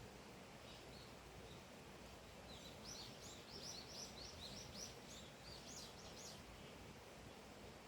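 A small songbird singing a quick run of high chirps, starting about two and a half seconds in and lasting about four seconds, over a faint steady outdoor hiss.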